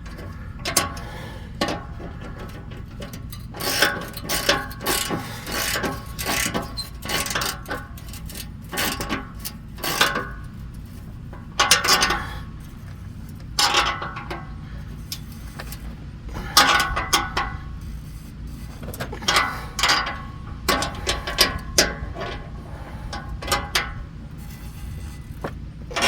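Ratchet clicking in repeated short strokes, with metal clinks, as the bolt of an exhaust band clamp is tightened against a wrench held on the nut.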